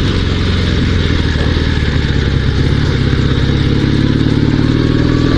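Dnepr 16 sidecar motorcycle's flat-twin boxer engine running steadily under way.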